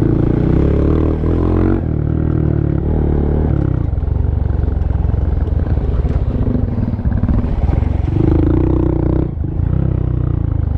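Honda Monkey 125's single-cylinder engine running under constantly changing throttle on a rough dirt trail, its pitch shifting up and down, with a short drop in level about nine seconds in as the throttle is closed for a moment.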